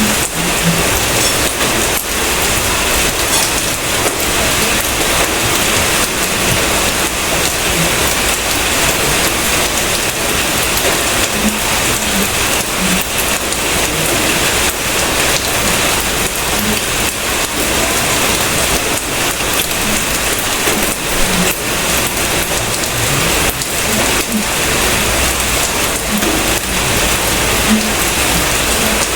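Steady heavy rain, an even, unbroken hiss of falling drops.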